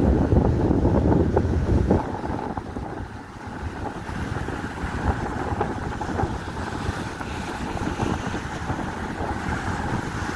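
Strong wind buffeting the microphone at sea, heaviest for the first two seconds, then easing to a steadier rush.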